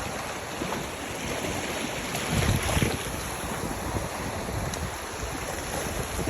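Wind blowing across the microphone over a steady rushing noise, with a stronger low gust about two and a half seconds in.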